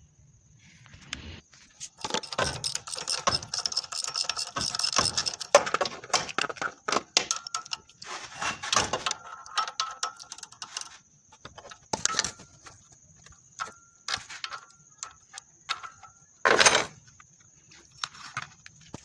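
Metal clinking and clattering: many sharp knocks and clicks with brief ringing, densest in the first half, then scattered clinks and one louder scrape near the end, as of hand tools and metal parts being handled.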